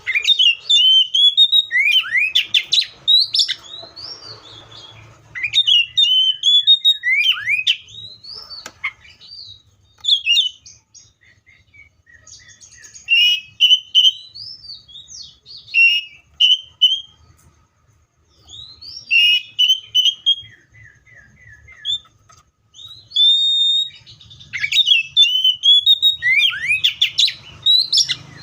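Seychelles magpie-robin singing: bouts of loud, quick, varied whistled phrases, a few seconds each, with short pauses between them.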